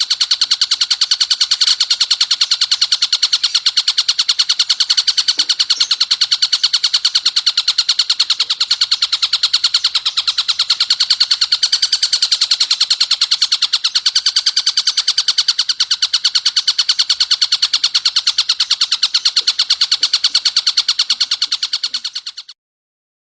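Recorded bird calls for training songbirds: a loud, fast, even string of sharp high notes repeated without a break, cutting off suddenly near the end.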